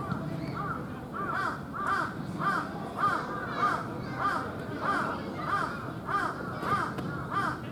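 A crow cawing over and over, about a dozen short, evenly spaced caws, a little under two a second.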